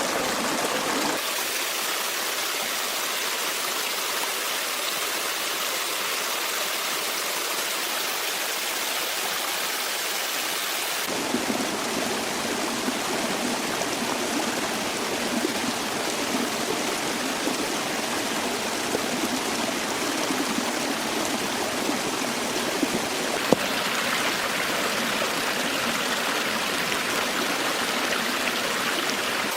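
Forest stream flowing: a steady rush of running water, its tone changing abruptly three times.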